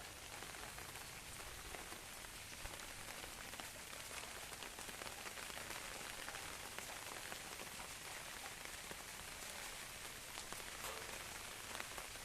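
Heavy rain falling steadily, a dense hiss of drops with many small individual drop ticks hitting surfaces.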